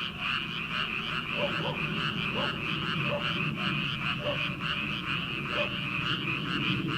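A dense chorus of many frogs calling together in a steady, pulsing trill, with a separate lower croak standing out now and then.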